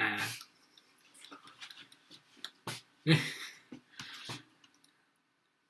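Short, muffled bursts of stifled laughter and breath, the loudest at the very start and about three seconds in, with small clicks and mouth noises between them.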